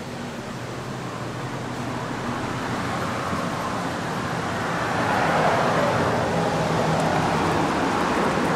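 Fire engine idling with a steady low hum, while a rush of traffic noise swells and grows louder from about halfway through.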